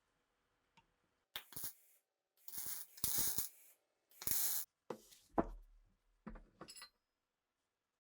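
A series of short scraping and rubbing strokes with a few sharp clicks, about six bursts in a few seconds, from hand work on rifle parts.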